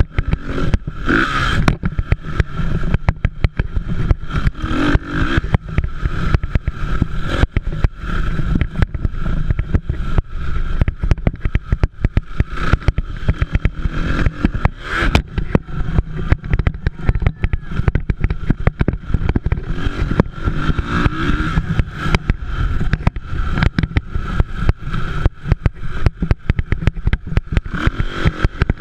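Motocross dirt bike engines running and revving around the track, loud and continuous, with a dense, choppy low rumble underneath.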